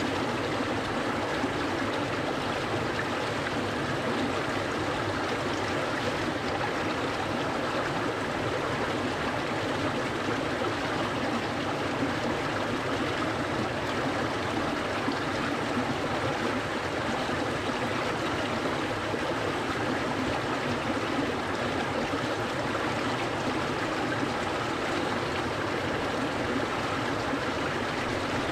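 A clear stream flowing steadily: a constant, even rush of running water.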